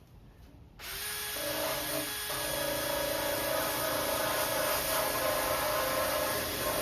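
Power tool with a wire wheel starting up about a second in, then running steadily as it scrubs a metal engine part clean, with a whirring hum that steps up in pitch shortly after it starts.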